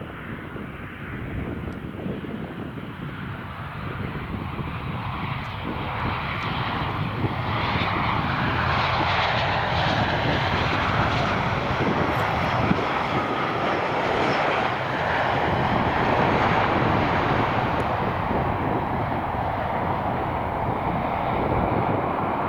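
Jet aircraft engine noise from a passing airliner. It swells over the first eight seconds or so, then holds loud and steady.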